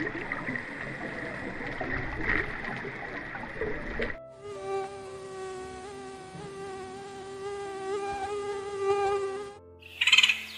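Mosquito whine in flight: a steady, high buzzing tone that wavers slightly, lasting about five seconds in the middle. Before it there is a rushing noise, and just before the end a loud bird call begins.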